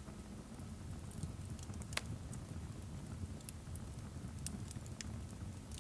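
Fireplace crackling: a steady low rumble of the fire with scattered sharp pops, and one louder crack about two seconds in.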